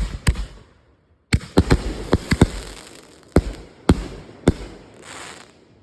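Fireworks going off in a run of sharp bangs. A few come at the start, then after a short gap a dense rapid cluster, then three more spaced bangs, and a brief hiss near the end.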